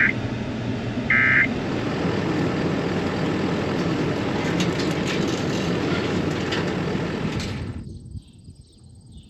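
Weather radio ending a severe thunderstorm warning with short electronic data-burst tones, twice: the alert's end-of-message code. A steady hiss follows, then about eight seconds in it cuts to a much quieter background.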